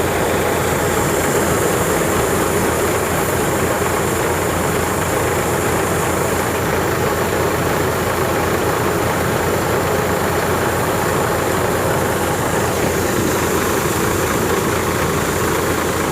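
Tractor-driven wheat thresher running steadily, the tractor engine and the machine together making a dense, even mechanical din with a thin steady high whine.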